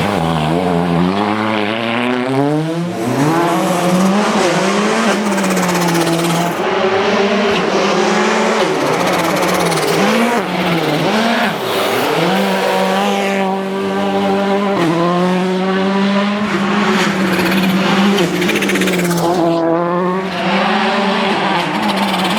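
Volkswagen Polo R WRC rally car's 1.6-litre turbocharged four-cylinder engine driven hard on a stage, revs rising and falling repeatedly through gear changes and braking, with several fast climbs in pitch.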